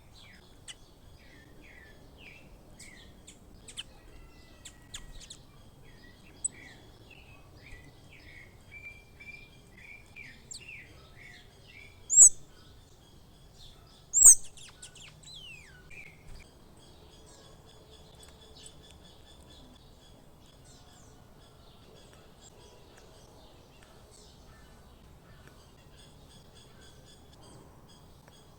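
Wild songbirds chirping and trilling in quick short notes, with two loud, sharp high-pitched calls about halfway through, then fainter chirping.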